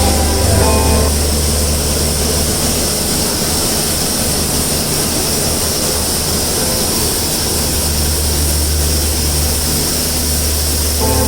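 Train noise: a loud, steady rush with a low hum under it, with no changes in pitch.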